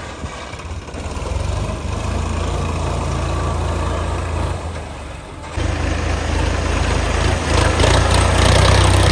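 Diesel tractor engine of a Sonalika DI-35 running steadily at low revs. It drops away briefly about five seconds in, then comes back louder and grows louder still toward the end.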